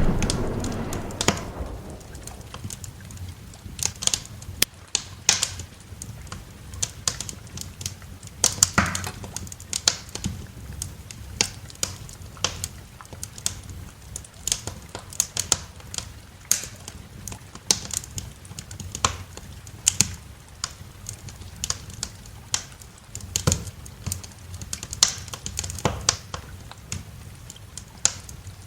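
Wood fire in a fireplace crackling, with irregular sharp pops and snaps several times a second over a steady low background. A louder burst right at the start fades out over about two seconds.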